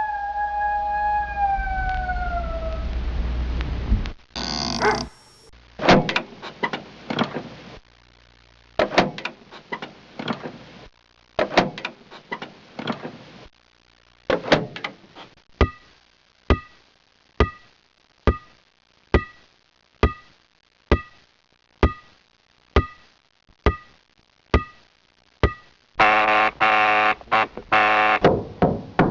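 Dubbed comic sound effects: a falling howl-like glide, then a long run of sharp knocks that settle into an even beat of about two a second, then a buzzy pitched sound near the end.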